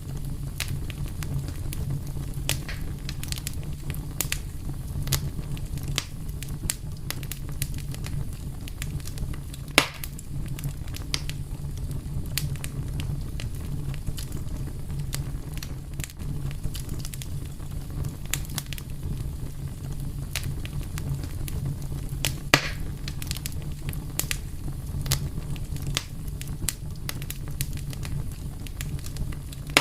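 Wood fire burning with a steady low rumble and frequent irregular crackles, with two louder pops about ten seconds in and again about twenty-two seconds in.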